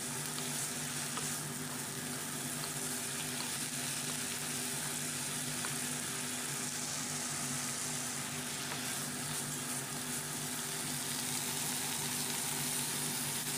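Garlic chives, dried tofu and pork sizzling steadily as they stir-fry in a non-stick wok, with light stirring from a wooden spatula. A faint steady hum runs underneath.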